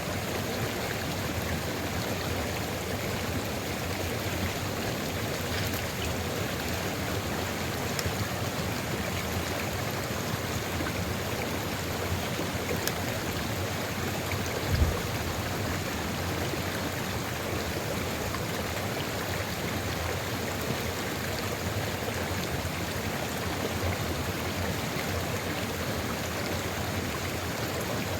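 Steady rushing of a flowing sulfur river stream, with a single brief low thump about halfway through.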